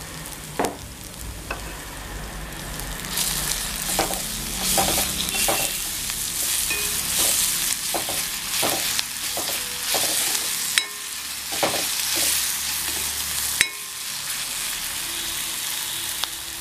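Spice masala sizzling in oil in a kadai while a steel spoon stirs it, scraping the pan with scattered sharp clinks of metal on metal. The sugar has just gone in and the masala is being sautéed after its raw smell has cooked off.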